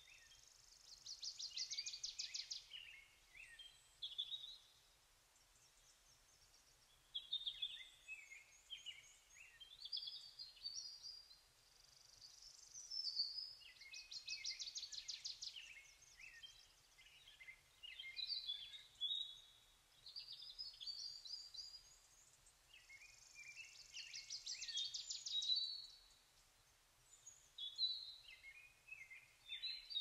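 Birdsong: varied high chirps and whistled phrases in short bouts with pauses between them. A rapid, high trill lasting about two seconds comes three times, near the start, in the middle and towards the end.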